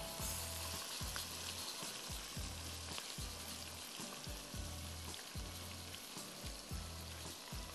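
Chopped ginger and garlic sizzling in hot oil in a wok with curry leaves and seeds, stirred with a spatula, frying toward golden. A low beat of background music repeats underneath.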